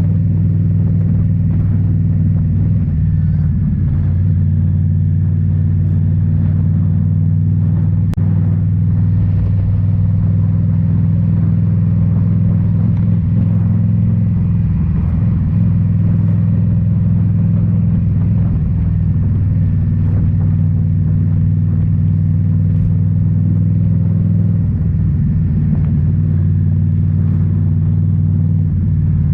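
Indian Scout Bobber's liquid-cooled V-twin running through Rinehart slip-on mufflers, a loud, steady deep exhaust note held at even revs. The pitch shifts briefly a few times, around 3, 9, 15 and 25 seconds in.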